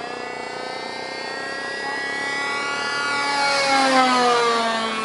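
RC airplane's motor flying past, growing louder to a peak about four seconds in as its pitch drops.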